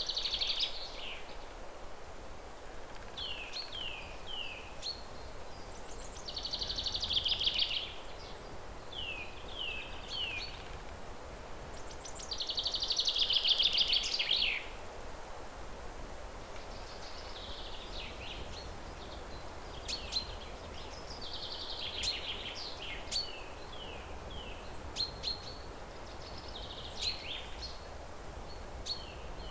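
Several songbirds singing over a steady low background hiss: short falling chirps repeated in quick series, broken by louder rapid trills about 6 to 7 seconds in and again from about 12 to 14 seconds in.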